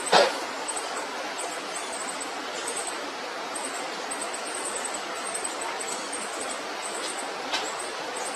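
Young birds giving short, high-pitched cheeps again and again over a steady hiss, with a sharp tap just after the start and another near the end.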